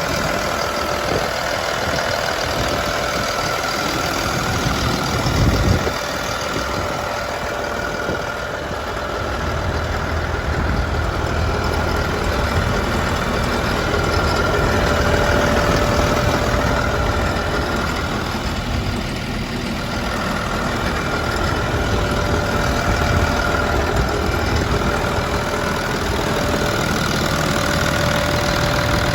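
Diesel engine of a Bomag BW226DH-4i single-drum roller running steadily at idle, with a steady whine over the engine rumble.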